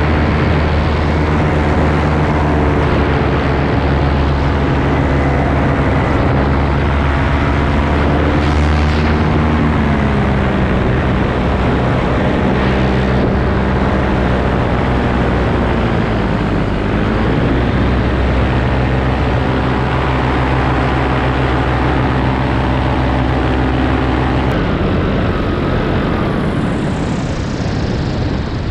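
Paramotor engine and propeller running steadily, heard from the flight, with wind on the microphone. The engine note sags briefly twice, then about three-quarters of the way through drops to a lower, less even note as the throttle is eased back.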